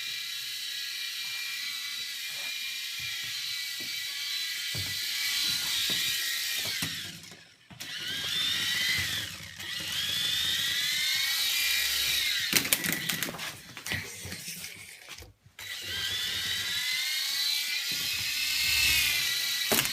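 Small electric RC toy helicopter's rotor motors whining at a high pitch, cutting out twice and spinning back up with a rising whine each time, with a few clicks and knocks in between.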